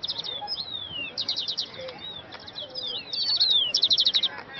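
Several songbirds chirping and singing together: quick runs of high repeated notes, loudest about a second in and again past three seconds, mixed with short falling whistles.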